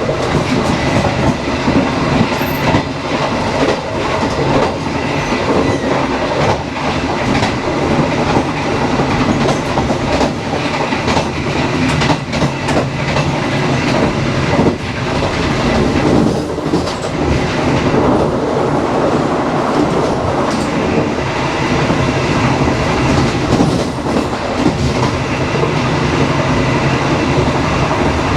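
Indonesian passenger train running on the line: a steady, loud rumble and rattle of the carriage with repeated clicks of the wheels over the rail joints.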